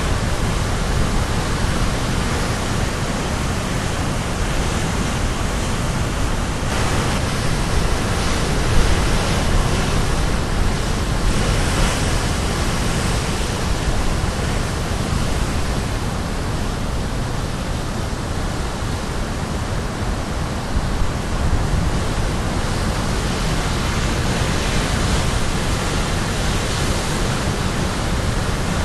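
Caribbean Sea waves crashing on the shore: a steady rushing roar of surf that swells and falls back every few seconds.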